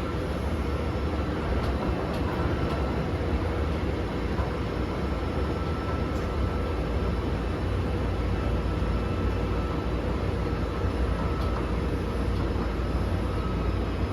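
Hankyu 7000 series field-chopper-controlled electric train running, heard from inside the passenger car: a steady low rumble of wheels and car body, with a faint steady whine on top.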